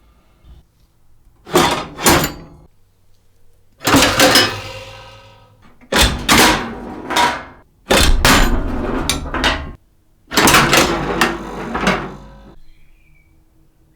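The restored 1920s Foot-Ball Staar mechanical football arcade machine's mechanism working: loud knocks and clattering rattles in five groups, some a quick double knock, others a rattle running on for a second or two.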